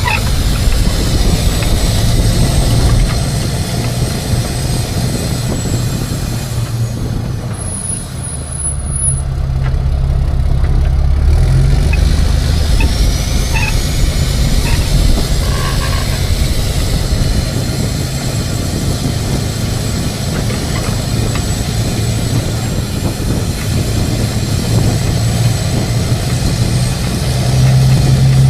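Tow truck engine running as it drives, heard from inside the cab, with a high whine that fades about seven seconds in and climbs back a few seconds later as the truck pulls away again.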